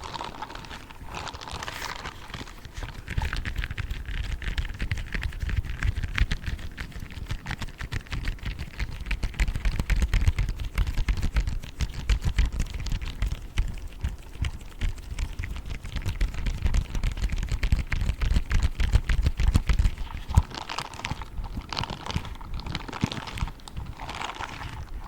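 Grey spiked gloves rubbing and tapping in a dense run of fast, scratchy taps, with deep low thumps through the long middle stretch that fall away to lighter, crisper scratching near the end.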